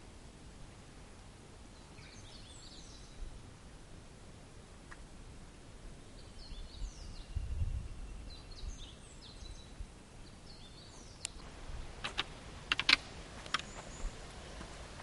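Small birds chirping in short, high calls, a couple of seconds in and again from about six to ten seconds in, over a faint steady background. A low rumble comes near the middle, then a handful of sharp clicks or knocks in the last few seconds.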